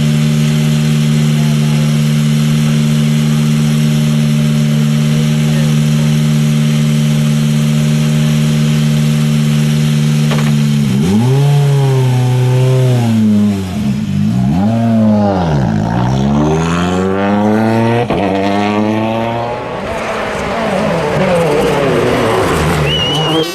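A 2017 World Rally Car's turbocharged four-cylinder engine is held at a steady pitch for about ten seconds. It then revs hard, its pitch sweeping up and dropping back again and again as it changes gear.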